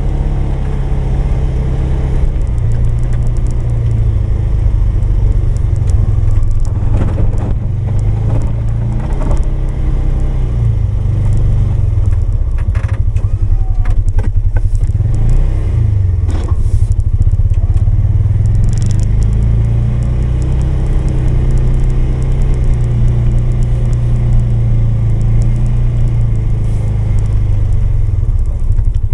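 Polaris 570 engine running steadily under load while plowing snow, with scattered scrapes and knocks at times through the middle.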